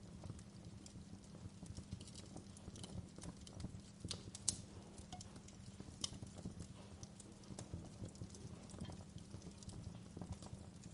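Fireplace fire crackling: irregular sharp pops and snaps over a low steady rumble, with one louder pop about four and a half seconds in.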